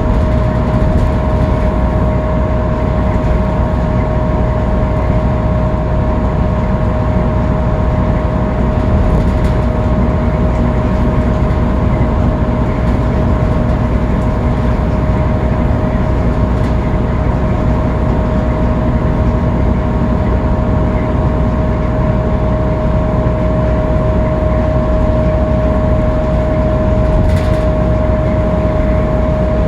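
Scania K310UB bus's five-cylinder diesel running steadily at freeway cruising speed: a constant low engine drone and road noise, with a steady high whine held throughout.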